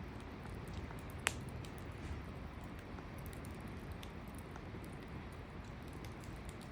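Wood campfire burning, with scattered faint crackles and one sharper pop about a second in over a steady low rush.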